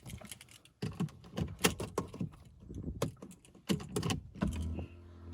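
Irregular small clicks and knocks of something being handled. About four and a half seconds in, a car's low steady engine hum comes up.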